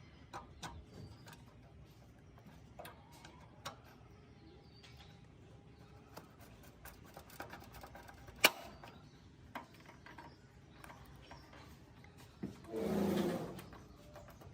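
Scattered light clicks and taps of small hard parts being handled, with one sharp click a little past halfway. Near the end comes a brief pitched sound lasting about a second and a half.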